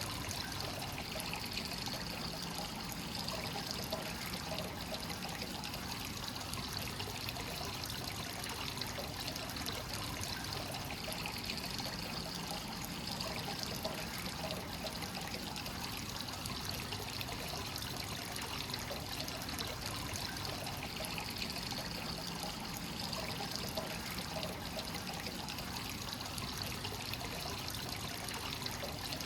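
Free-flowing hot-spring water pouring steadily into a rock bath, an even, unbroken trickling splash.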